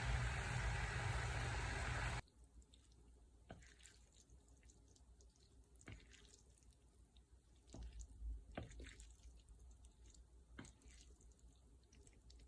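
Running water from a kitchen tap, shut off abruptly about two seconds in, followed by a few faint drips and small knocks.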